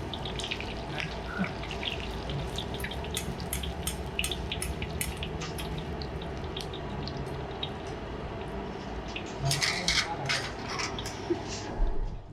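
Food deep-frying in hot oil: a steady sizzle with scattered crackles and pops, thickening into a denser run of pops about ten seconds in.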